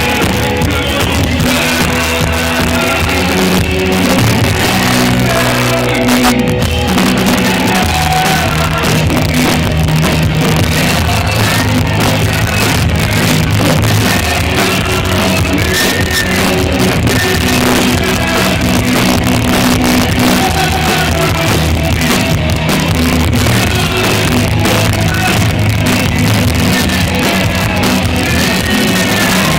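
Rock band playing live and loud, with a singer's voice coming in at times.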